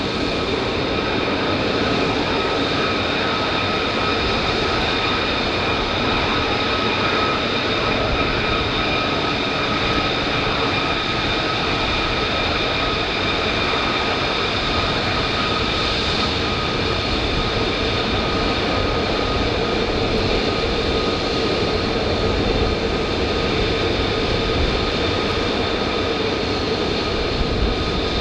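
Military jet engine running steadily on the ground, a constant whine over a rushing noise that neither rises nor falls.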